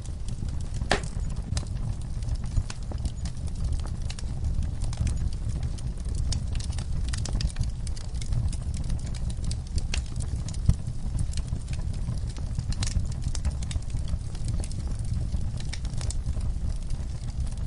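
Wood fire crackling in a fireplace: irregular sharp snaps and pops over a steady low rumble, with one louder pop about a second in.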